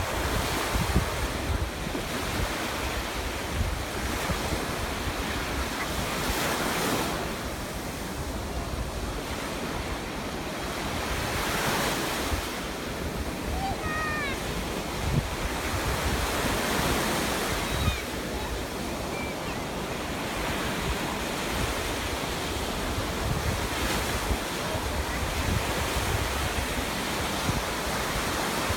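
Stormy sea surf: waves breaking in repeated surges every five or six seconds, with wind buffeting the microphone.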